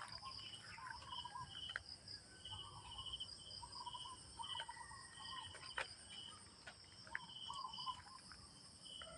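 Faint insects chirping: a steady high-pitched trill under short chirps that repeat about once a second, mixed with lower warbling calls.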